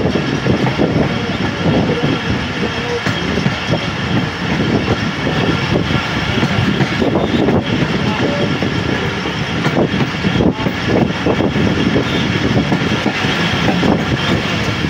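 Running noise of the Khyber Mail passenger train, heard from an open carriage window: a loud, steady rumble of coach wheels on the rails mixed with rushing air.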